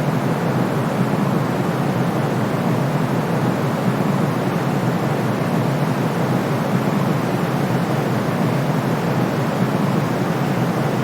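Steady, unchanging white noise with a deep, muffled hiss weighted toward the low end, played as a calming sound for a colicky baby.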